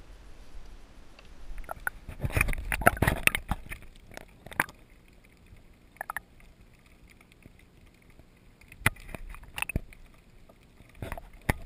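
Knocks, clatter and water splashing on a fishing kayak, as a freshly caught squid and the tackle are handled. There is a busy flurry of it about two seconds in, then a few scattered sharp knocks.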